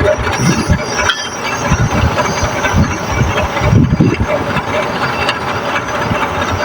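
Brazing torch flame burning on the compressor's copper pipe joints: a steady rushing hiss with an irregular low flutter.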